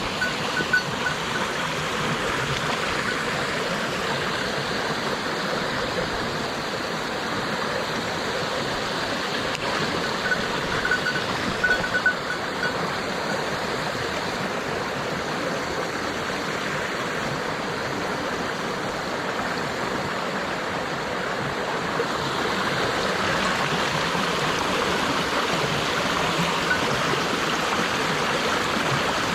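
Mountain stream water rushing steadily over rocks, a little louder near the end.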